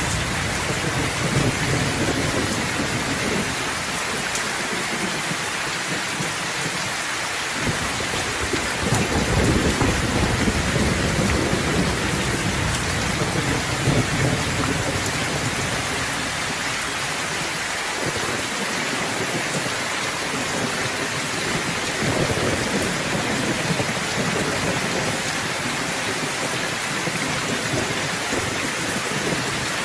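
Steady, heavy rain hissing, with thunder rumbling low in long rolls underneath, swelling loudest about a third of the way in.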